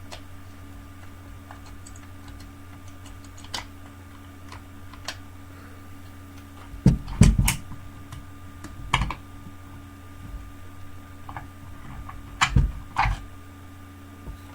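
Scattered clicks and knocks of plastic and metal parts being handled as a car's electric cooling-fan assembly is taken apart, the loudest cluster about halfway through, over a steady low hum.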